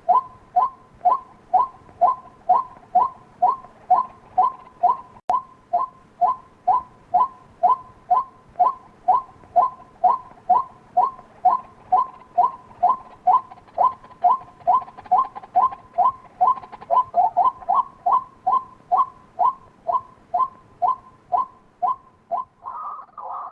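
White-breasted waterhen calling: a steady run of short two-pitched calls repeated about twice a second, a little louder and closer together near the end. This is a call recording of the kind used to lure waterhens.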